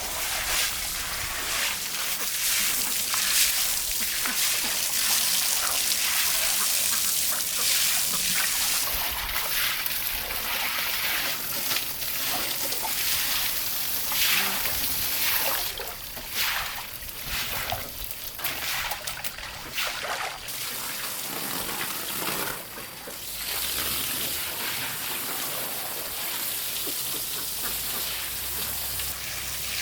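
Water trickling and splashing, with many small irregular splashes over a steady hiss of running water.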